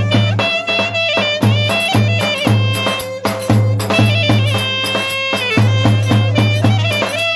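Turkish folk music played by a band: a high, ornamented melody with quick trills over a repeating low drum beat.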